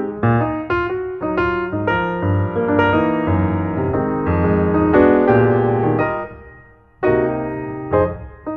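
Background piano music: chords and quick runs of notes over a bass line, breaking off briefly about seven seconds in and starting again.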